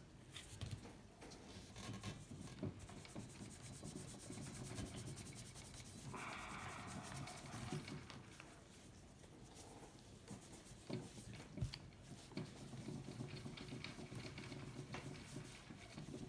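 Faint, irregular rubbing and rustling of a cloth working metal polish over a steel bicycle frame, with a brief louder scrubbing spell about six seconds in.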